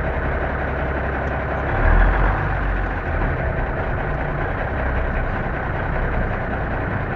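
The diesel engine of an M923A1 military 5-ton 6x6 truck running steadily, with a deeper low rumble swelling briefly about two seconds in.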